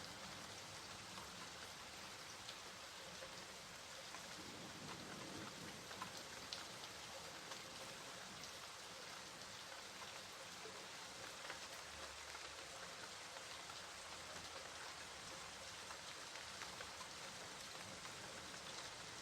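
Steady rain falling, an even hiss with many small drops ticking, a few of them a little louder.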